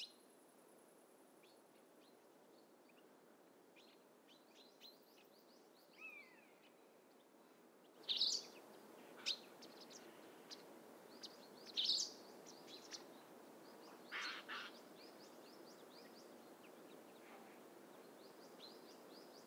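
Scattered wild bird calls and short chirps over a faint, steady outdoor background hiss. The loudest calls come about eight and twelve seconds in.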